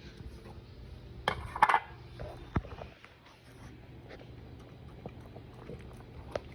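A dog gives two short barks about a second and a half in, followed by a few light knocks and clicks.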